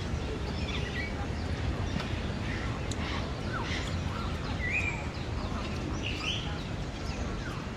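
Several birds calling with short chirps and squawks, scattered irregularly, over a steady low background noise.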